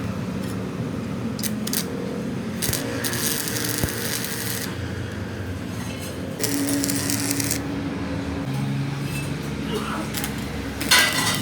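Metal parts clinking and scraping, with a sharp metallic knock near the end, over a steady low mechanical hum.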